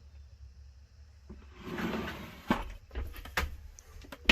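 Parts bins being handled on the van's shelving: rustling and scraping with a few sharp knocks, starting about a second and a half in, the loudest knock near the end.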